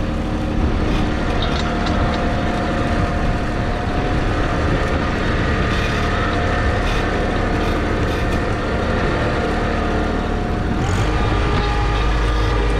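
John Deere 1023e compact tractor's three-cylinder diesel engine running steadily under load while towing a pickup on a rope; its note shifts slightly about eleven seconds in.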